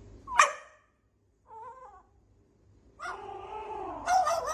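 A pet animal calling out three times: a short sharp cry, a brief wavering call, then a longer drawn-out one that gets louder near the end.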